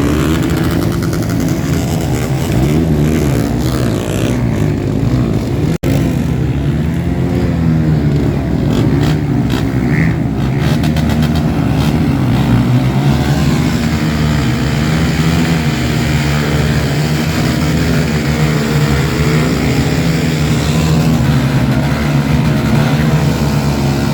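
Off-road dirt bike engines running and revving hard, the pitch wavering up and down, with a brief break about six seconds in.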